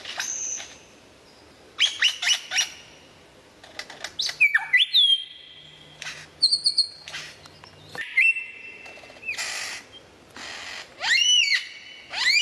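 Bird calls: clusters of quick rising chirps, a few held whistle notes and some harsh, raspy calls in between.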